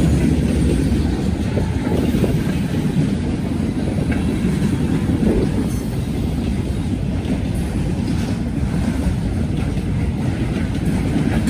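Norfolk Southern freight train's cars rolling past, a steady low rumble.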